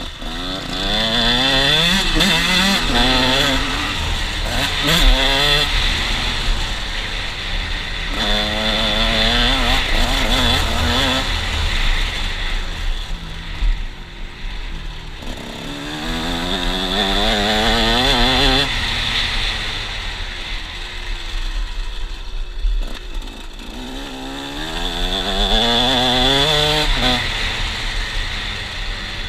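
KTM 125 SX's single-cylinder two-stroke engine under hard acceleration: the pitch climbs, drops and climbs again as it shifts through the gears, with several bursts of throttle and short lulls where the rider eases off.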